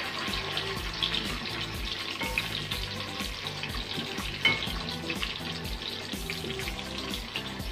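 Sliced dry dates, coconut, pistachios and raisins sizzling in hot oil in a steel pot, stirred with a spatula that scrapes and clicks against the metal, with one sharper click about four and a half seconds in. Soft background music plays underneath.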